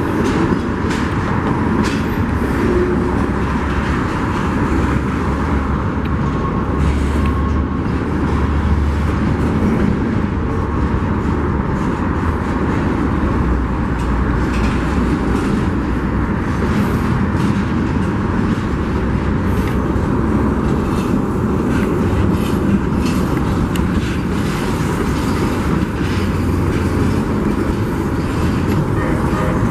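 Union Pacific freight train's railcars rolling past on the track, a steady loud rumble with faint scattered clicks.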